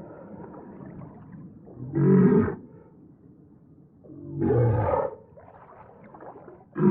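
Creature vocal sound effect for the prehistoric whale Livyatan: short pitched calls, one about two seconds in, another about four and a half seconds in, and a third starting at the very end, with a fainter noisy rumble between them.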